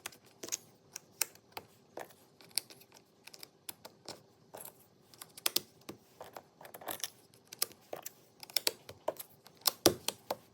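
Jigsaw puzzle pieces being handled and fitted together: irregular small clicks and taps, with a louder knock near the end.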